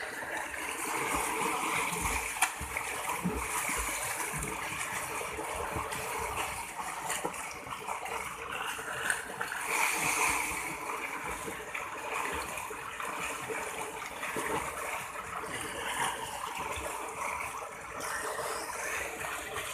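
Water splashing continuously from someone swimming.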